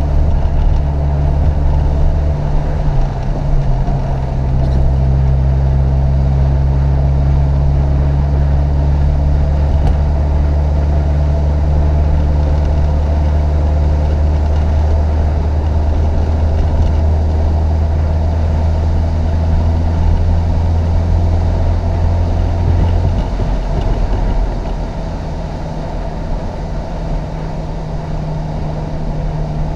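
Chevrolet Opala Comodoro's four-cylinder petrol engine pulling hard under load as the car climbs. Its deep, steady drone shifts pitch a couple of times in the first few seconds, then drops lower and quieter about three quarters of the way through as the throttle eases.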